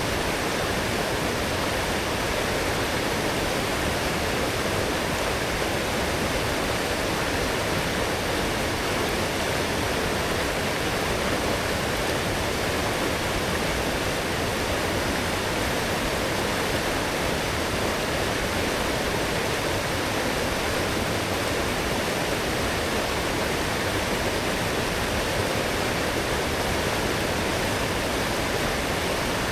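Forest stream running strong and full after heavy rain: a steady rush of flowing water, even throughout, with no other sounds.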